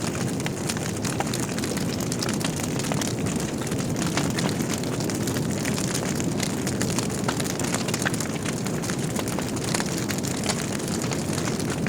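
Wood fire burning in a fireplace: a steady low rumble of flame with many small crackles and pops scattered throughout.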